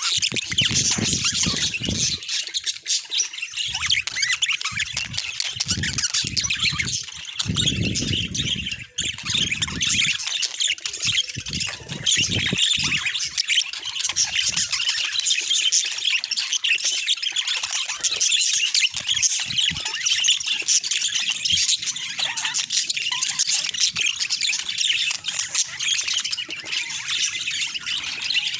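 Budgerigars chattering: a continuous, dense stream of high-pitched warbles and chirps. There is some intermittent low rumbling in roughly the first ten seconds.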